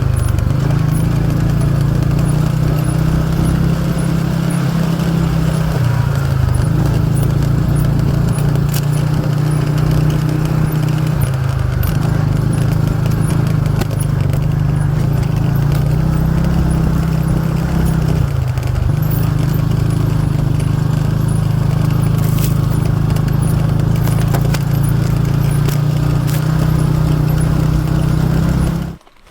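CFMoto buggy's engine running steadily while driving, its note dipping briefly three times, then cutting off suddenly near the end.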